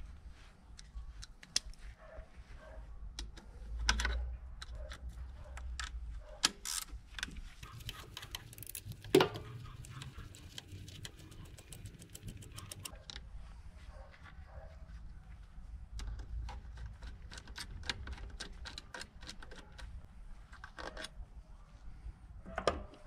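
Metal clinks and knocks of hand tools and engine parts being handled during disassembly of a Yamaha YZF R1 engine. There is one sharper knock about nine seconds in, over a steady low hum.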